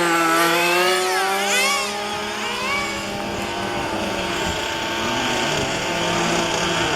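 Several 1:5 scale petrol RC cars' small two-stroke engines running at once, revving up and down as the cars lap the track, with quick rising and falling pitch sweeps in the first few seconds.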